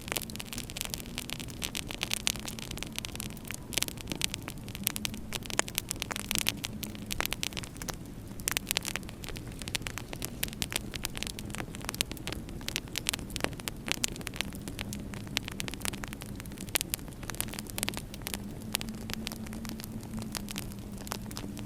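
Wood fire crackling in a fireplace, with dense irregular pops and snaps over a steady hiss, and a low wavering hum underneath.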